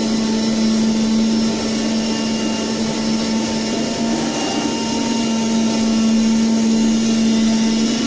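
Knife-type leather cutting machine running a cutting job: a steady whirring machine noise with a constant low hum, unbroken throughout.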